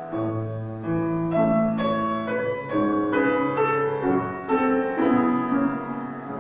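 Solo piano playing a slow, lyrical piece: a melody of struck notes that ring and fade over held bass notes, growing softer near the end.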